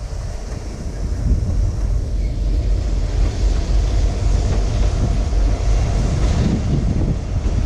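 Kansas City Southern ballast train cars rolling past in a steady low noise, with wind buffeting the microphone.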